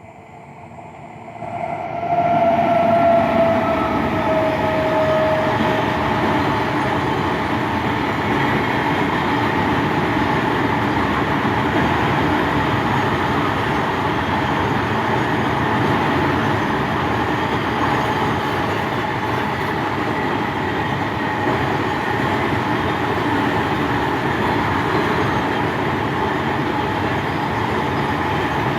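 Fully loaded freight train hauled by a WAG-9HC electric locomotive running past. The sound swells over the first two seconds, a falling tone rings for a few seconds as the locomotive goes by, then the wagons roll past in a steady, loud rumble.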